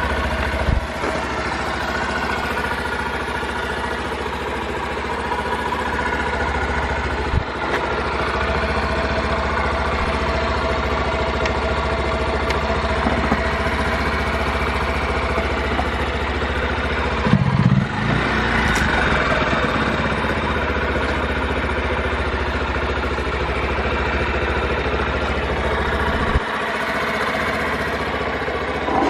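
Honda Super Cub 50 FI's single-cylinder four-stroke engine idling steadily, with a short louder moment about seventeen seconds in. It runs evenly with no abnormal noise, which the seller takes as the engine being in good condition.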